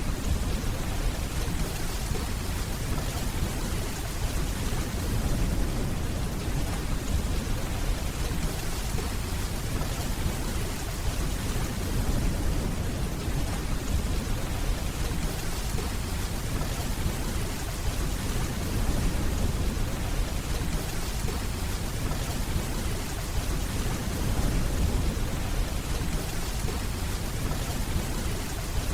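Steady heavy rainfall with a low, rolling rumble of distant thunder underneath.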